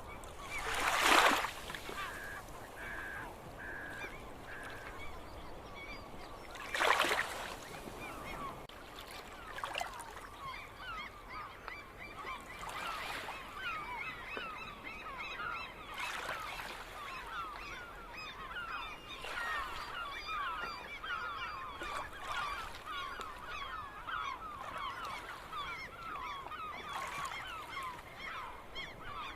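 Gulls calling: a short run of four or five even notes a couple of seconds in, then from about ten seconds a flock's steady chatter of many short, falling cries. Two loud harsh bursts stand out, about a second in and near seven seconds.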